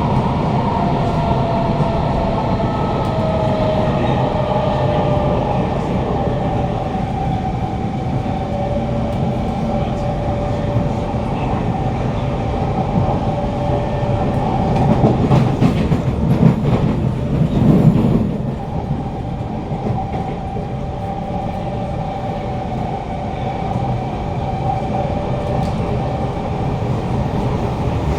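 Inside a Kawasaki Heavy Industries C151 metro car on the move: the whine of its GTO-VVVF traction motors slides down a little at first, then holds steady over the rumble of wheels on track. About halfway through, the wheels rattle and click louder for a few seconds, and afterwards it runs a little quieter.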